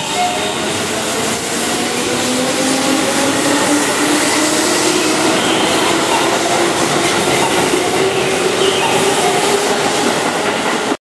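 Keihan electric commuter train pulling out and picking up speed along the platform: wheels running on the rails, with a faint motor whine that slowly rises in pitch. The sound breaks off suddenly near the end.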